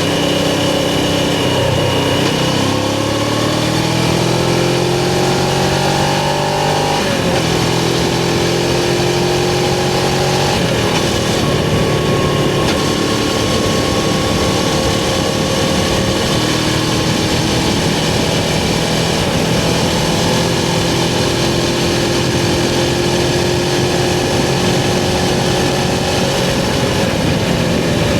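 Suzuki GS500's air-cooled parallel-twin engine pulling under acceleration. Its pitch climbs for several seconds, drops at a gear change about seven seconds in, then rises briefly again and settles to a steady cruise.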